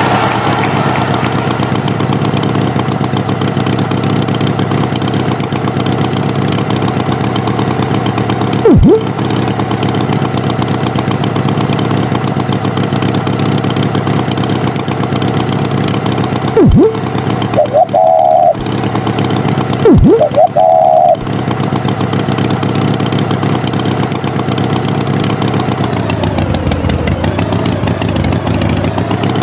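Cartoon tractor engine running steadily. Three quick boing-like swoops come about 9, 17 and 20 seconds in, and the last two are followed by short wavering tones. Near the end the engine pitch dips and comes back up.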